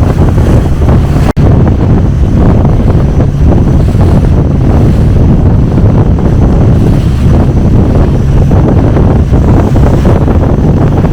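Longtail boat engine running steadily under way, with heavy wind buffeting the microphone. The sound cuts out for an instant about a second in.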